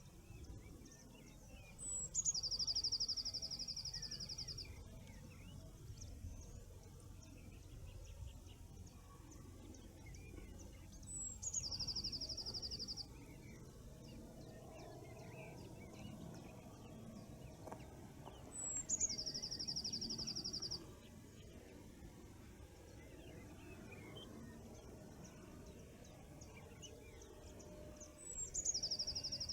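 A songbird singing the same short song four times: a quick high downslurred note followed by a fast, even, high trill lasting about two seconds. Other birds call faintly in between, over a low steady background rumble.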